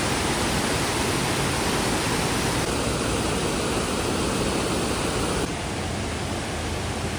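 Rain-swollen mountain waterfall pouring down: a steady rush of falling water. It becomes slightly quieter about five and a half seconds in.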